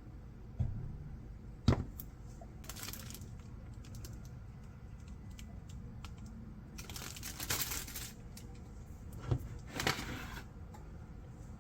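Household handling sounds: a few sharp knocks, one of them loud, and three bursts of rustling or crinkling.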